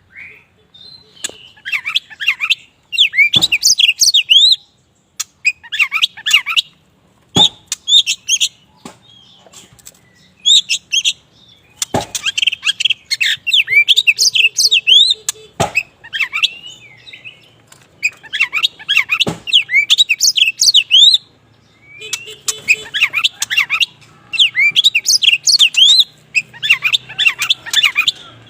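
Oriental magpie-robin of the all-black 'kacer wulung' form singing, in repeated bursts of rapid, varied whistled and chattering phrases with short pauses between them. Sharp clicks come now and then between phrases.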